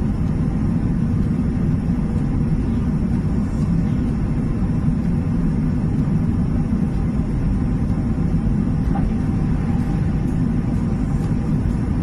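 Steady low drone of a jet airliner cabin in flight, with no change in level.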